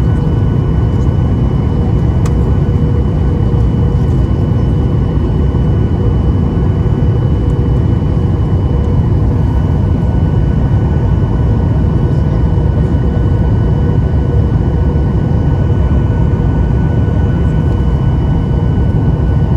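Steady cabin noise of a Boeing 737-800 airliner: the deep drone of its CFM56 jet engines and airflow past the fuselage, with a few faint steady tones above it.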